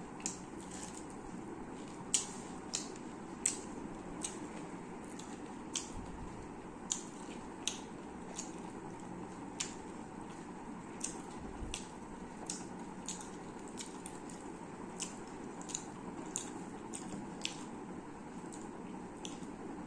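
A person chewing food close to the microphone, with wet mouth clicks and smacks at irregular intervals, roughly one or two a second, over a steady low hiss.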